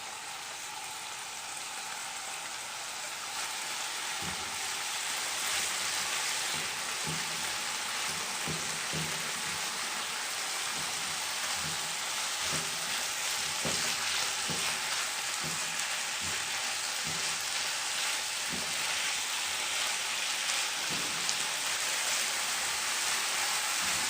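Small-cut liver and minced garlic sizzling steadily as they fry in oil in a pan, getting a little louder about four seconds in, with irregular knocks of a spoon stirring against the pan.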